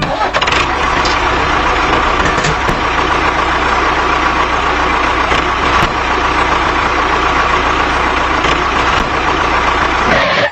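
Small single-cylinder-style mini diesel engine running steadily, a dense even mechanical clatter over a low hum.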